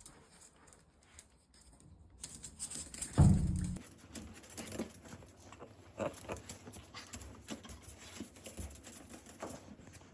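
A small dog's paws pattering and tapping in quick, irregular steps, with one dull thump about three seconds in.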